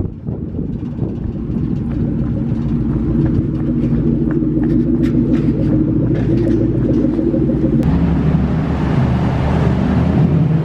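A car's engine and exhaust running steadily as the car drives at low speed, with a sudden change in the engine note about eight seconds in.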